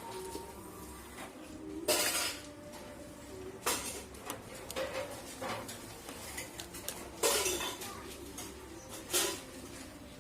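Hand tools clinking and clattering against metal at a repair bench, in about seven separate knocks, the loudest about two seconds in and about seven seconds in.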